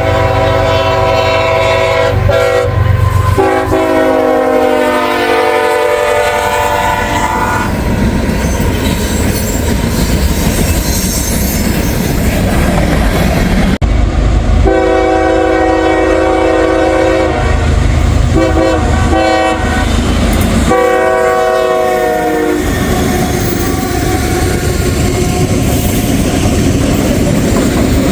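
Diesel freight locomotive's multi-chime air horn blowing as the train passes, its chord dropping in pitch about three seconds in, then the steady rumble of the train with wheel clickety-clack. After a break about halfway through, the horn sounds three more times, two long blasts around a shorter one, over the engine and wheel noise.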